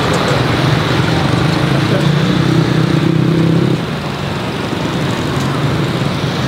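Steady engine noise with a low hum, easing off about four seconds in.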